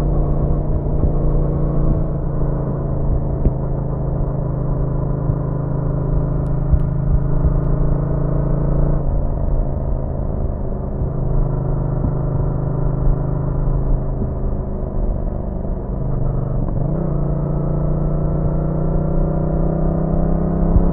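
Yamaha MT-07's 689 cc parallel-twin engine running at a steady cruising speed on a motorcycle, holding an even pitch. The pitch shifts slightly a few times, dips briefly about two-thirds of the way through, then picks back up.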